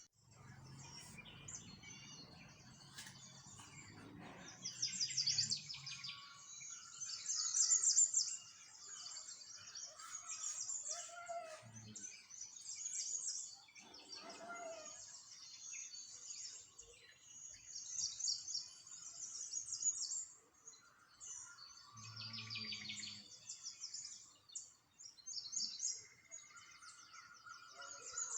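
Small songbirds chirping and trilling in rapid, overlapping high calls, with a low hum underneath for the first few seconds and again briefly about 22 seconds in.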